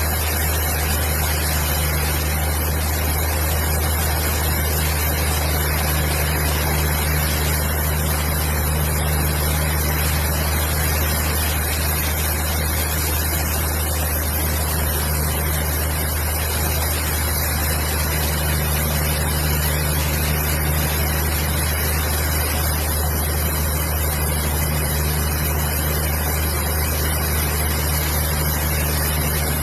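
A machine's engine or motor running steadily, a low hum under a constant hiss, with no change in speed or load.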